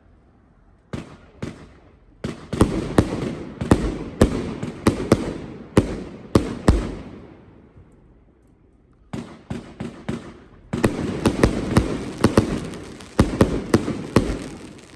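Chaos 100-shot firework cake firing: rapid sharp reports with crackling between them. They come in two volleys, with a pause of about two seconds near the middle.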